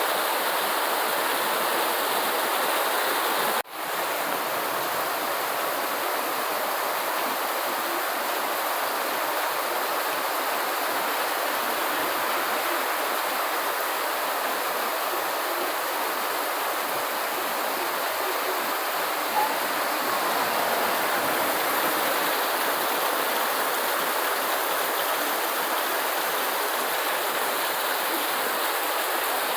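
Steady, dense rain, an even hiss with no pauses, broken by a brief sudden dropout a little under four seconds in.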